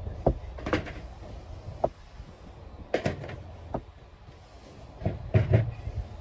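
Irregular knocks and clacks, several short sharp strikes spaced unevenly, with a cluster of them near the end: parts and hand tools being handled and set down during repair work on a two-stroke cultivator engine.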